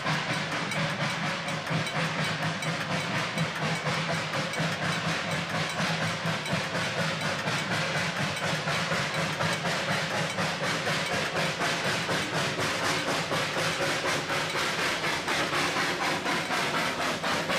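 Puffing Billy Railway narrow-gauge train running, with a rapid, even beat over a steady hiss and low hum.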